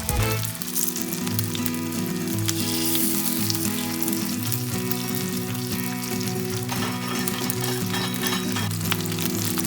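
Food frying in hot oil in a pan: a steady sizzle with a constant patter of small crackles.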